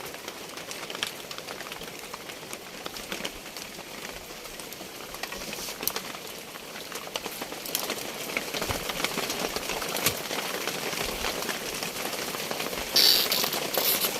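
Steady rain falling, with scattered drips and small taps. A short, louder rustle comes near the end.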